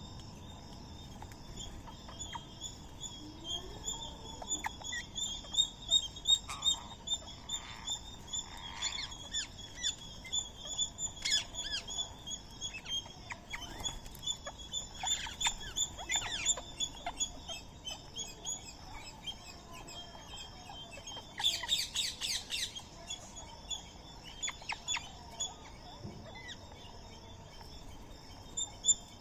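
Birds chirping and calling steadily in a repeating high twitter, with scattered short sharp calls and a quick run of rapid calls about three quarters of the way through.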